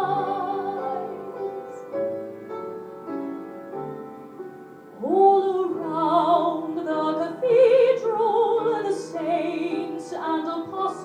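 Piano accompaniment playing alone, then about five seconds in a woman's trained, operatic-style voice enters, singing long notes with wide vibrato over the piano.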